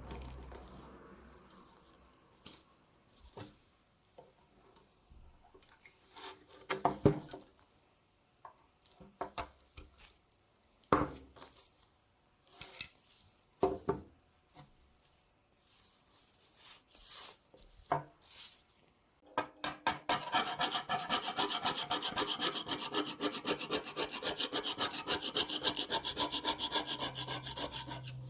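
Hand work on a rusty hunting knife: a few scattered knocks and short scrapes, then, about two-thirds of the way in, rapid even back-and-forth strokes of an abrasive being rubbed along the metal that carry on to the end.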